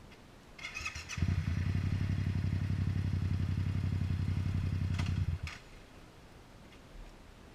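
Yamaha MT-07's parallel-twin engine being cranked on the electric starter: a brief whine, then about four seconds of steady, fast, even cranking that stops suddenly without the engine catching, as the bike refuses to start.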